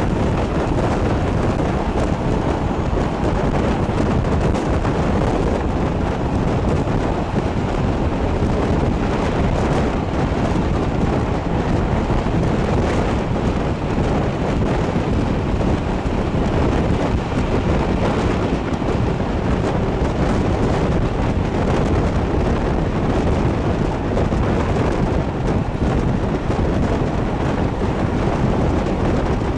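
Steady rush and rumble of a moving train, with wind buffeting the microphone.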